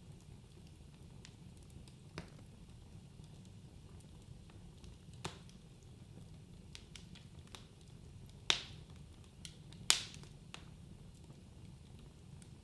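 Wood fire burning in a fireplace with a low steady rumble and scattered sharp crackles, and two loud pops about two thirds of the way through.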